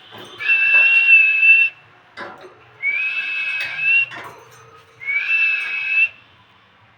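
Parrot whistling: three long whistles of about a second each, the last two starting with a short upward slide.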